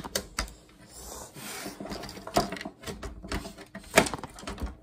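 Monitor parts being handled on a table: scattered clicks and knocks, with a scraping rub about a second in and a sharper knock near the end.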